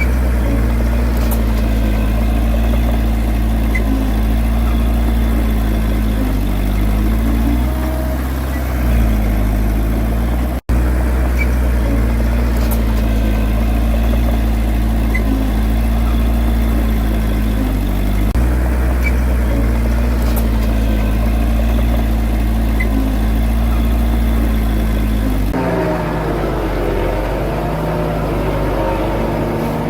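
Heavy diesel engine of earthmoving machinery running steadily, its pitch sagging briefly a few times as it takes load. The sound breaks off for an instant about ten seconds in, and near the end the engine note changes to a lower, wavering one.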